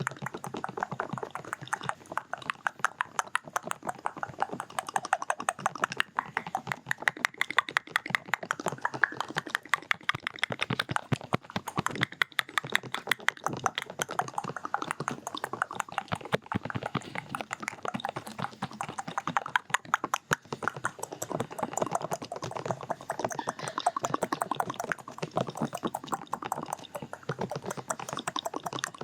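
Rapid 'duk-duk' ear-microphone ASMR sounds: a dense, steady run of quick muffled taps and clicks, several a second, without a break.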